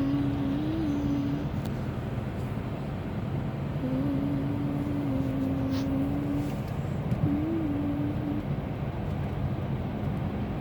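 Car driving, heard from inside the cabin: a steady rumble of road and engine noise. A held humming tone comes and goes over it in stretches of a second or two, with a small wavering rise now and then.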